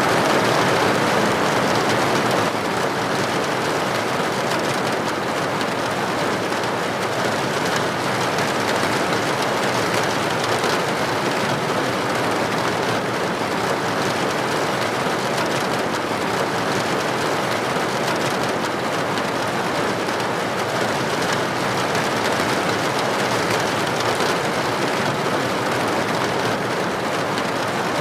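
Steady rain falling without a break, an even hiss.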